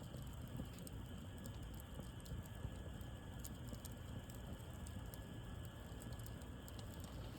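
Wood bonfire crackling, with many small, irregular pops and snaps over a low rumble.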